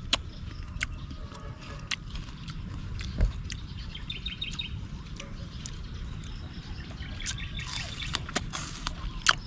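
Birds chirping in two short runs of quick high notes over a steady low rumble, with a few sharp clicks.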